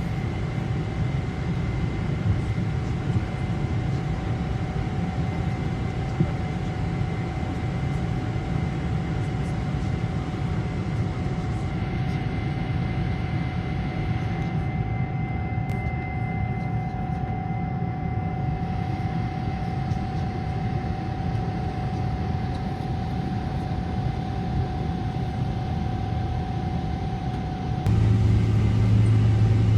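Steady cabin noise inside a Boeing 777-300 airliner: a low rumble with a constant whine. Near the end it abruptly changes to a louder, deeper hum.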